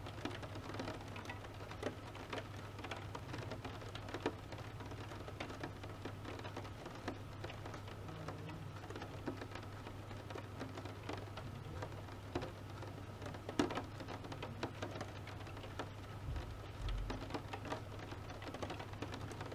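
Rain falling, drops pattering and ticking irregularly on a surface, over a low steady hum.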